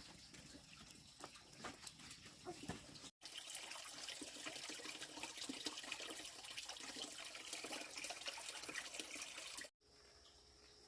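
Water running and splattering, with small clicks through it; the sound cuts off abruptly twice.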